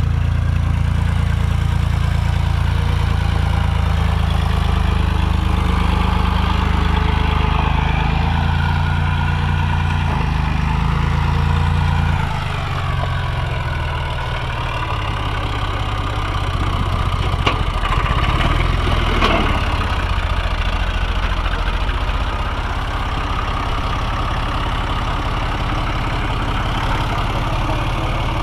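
Engine running steadily with a deep, even hum. Its low note shifts about twelve seconds in, and the pitch rises and falls briefly a few seconds later.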